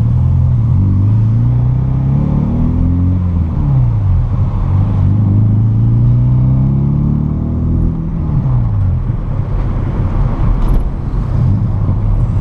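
Volkswagen Golf Mk3 engine and exhaust, running without its catalytic converter and middle muffler, pulling hard through the gears: the note rises, drops sharply at a gear change a few seconds in, rises again, then falls away and settles near the end.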